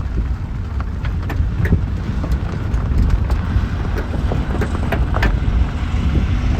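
Large fertilizer spreader machine running and driving off across the hayfield, a steady low rumble with scattered light ticks.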